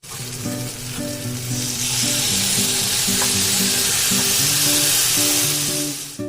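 Food sizzling as it fries in a hot pan, a dense hiss that grows louder over the first two seconds, holds steady and cuts off suddenly near the end.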